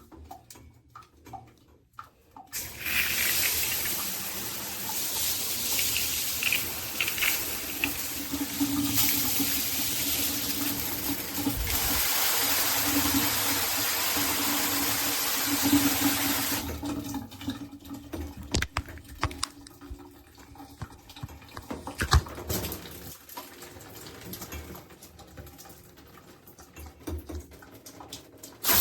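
Handheld shower head spraying water in a steady rush that starts about two and a half seconds in and shuts off about seventeen seconds in, its spray sound changing about twelve seconds in. After that, only scattered small clicks and knocks.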